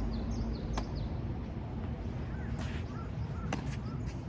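Small birds chirping in short repeated calls over a steady background hum, with two sharp knocks about three seconds apart.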